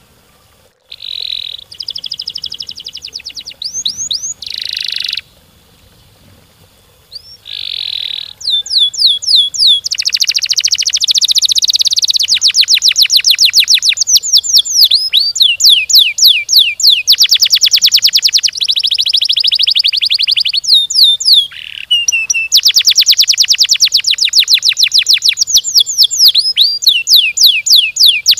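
Domestic canary singing loud, high-pitched song: short phrases of quick sweeping notes at first, then long, fast, dense rolling trills of rapidly repeated notes that run on almost unbroken, with a short pause about three-quarters of the way through.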